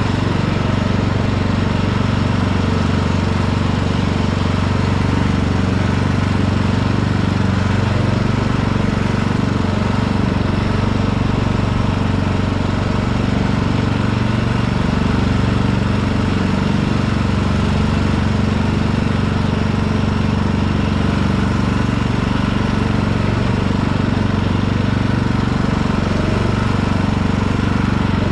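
Lawn tractor engine running steadily while the tractor is driven, with the mowing blades not engaged.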